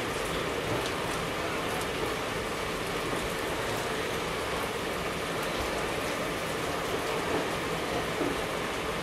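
Steady rushing noise of Indian Railways coaches running on rail, heard through an open coach door with another train's coaches passing close alongside, with a few faint clicks of wheels over rail joints.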